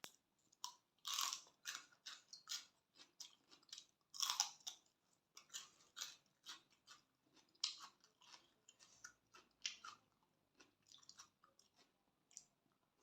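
A person chewing and biting a mouthful of yam woon sen (spicy glass-noodle salad) close to the microphone, in irregular mouth clicks and smacks, with two louder bites about a second in and about four seconds in.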